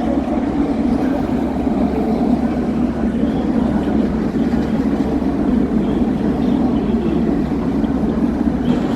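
A train at the station platform, with a steady low rumble that holds at one level without changing.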